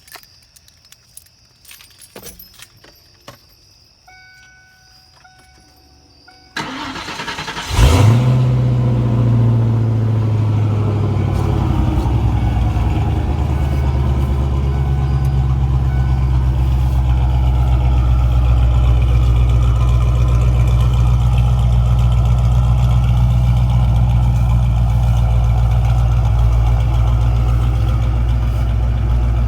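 Ford Mustang 5.0 V8 with an SLP Loudmouth exhaust starting up. After a few quiet seconds of small clicks, the starter cranks for about a second, then the engine catches with a loud flare and settles into a steady, deep, loud idle.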